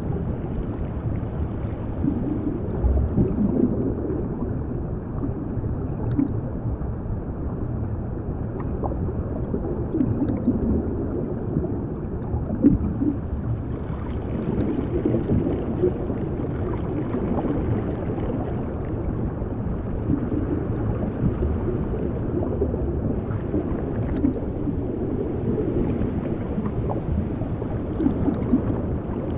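Underwater bubbling and gurgling water, heard as a continuous deep, muffled rumble with small irregular pops.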